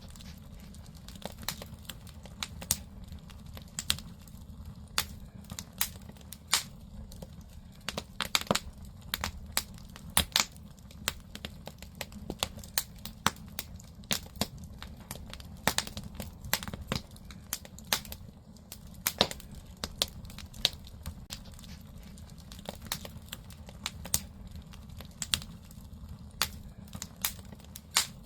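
Firewood burning in a traditional Korean agungi, the wood-fired firebox of an ondol-heated house: irregular sharp crackles and pops, several a second, over a low steady rumble.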